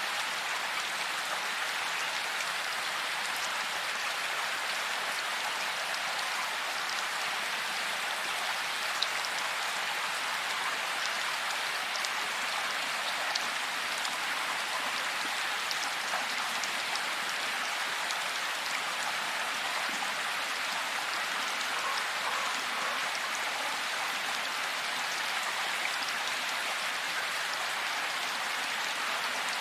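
Steady, even rain falling, with a few single drops ticking slightly louder now and then.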